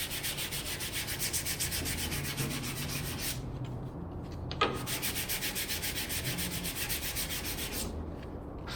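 Hand sanding on wood, in quick, even strokes of about five a second, in two bouts split by a short pause with a single knock.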